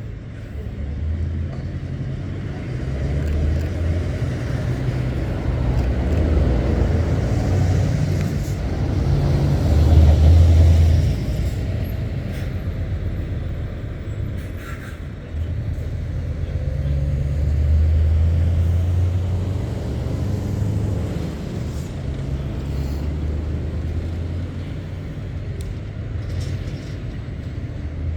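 Lorry diesel engines running low and heavy as trucks pull out and pass, swelling loudest about a third of the way in and again around two-thirds of the way through.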